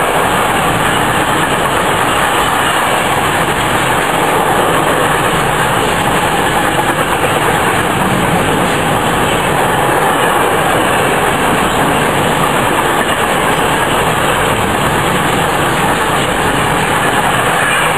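Intermodal freight train's swap-body container wagons rolling past at speed on the adjacent track: a loud, steady noise of steel wheels running on the rails.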